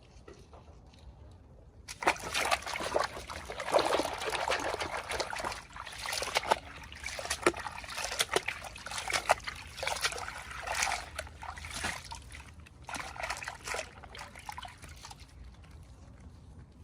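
Water trickling and splashing in uneven surges, starting about two seconds in and stopping a little before the end.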